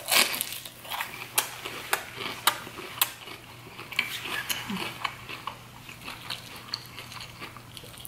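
Close-miked chewing of a crispy fried shrimp: a string of irregular crunches and wet mouth clicks.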